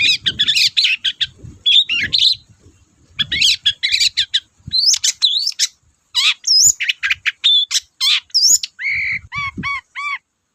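Long-tailed shrike (cendet) singing a fast, varied song of chirps and whistles in quick bursts. It ends in a run of about five repeated arched notes, then stops just before the end.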